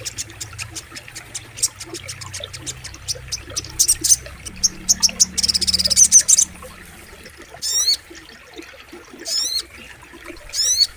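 Sogok ontong bird calling: a fast run of high, sharp chips and buzzy trills, then three short quick phrases of repeated falling notes in the second half, over a faint low steady rush of flowing water.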